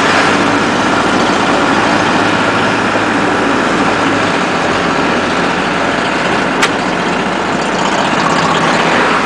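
Steady vehicle engine and road noise heard from inside a truck cab, with one brief click about six and a half seconds in.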